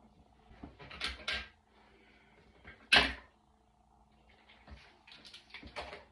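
Handling noises: a couple of knocks about a second in, one sharp loud knock about three seconds in, and a run of lighter clatters near the end.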